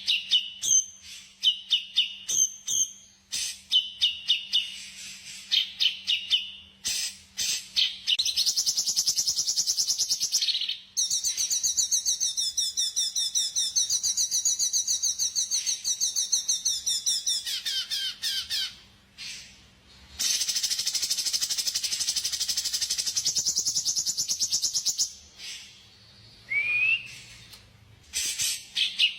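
Recorded songbird song used as masteran: high-pitched sharp chips, then long, fast, chattering trills with short gaps between them, and a single rising whistled note near the end.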